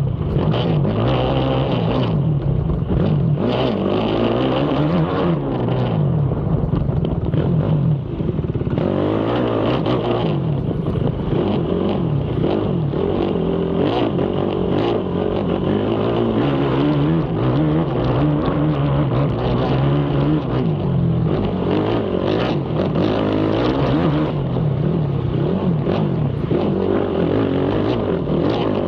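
Racing ATV engine ridden hard, revving up and falling back again and again as the rider accelerates and shifts, heard from on board, with a brief drop in the engine about eight seconds in.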